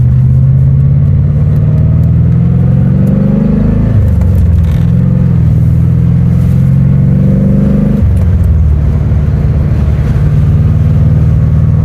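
1990 Corvette's L98 V8 pulling through the gears of its ZF six-speed manual. The engine pitch rises, drops at an upshift about four seconds in, rises again, drops at a second upshift about eight seconds in, then runs steady.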